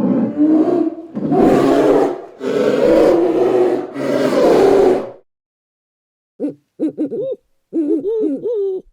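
A large animal roaring four times in long, rough calls. From about six and a half seconds in, a different animal gives a run of short, pitched calls that rise and fall.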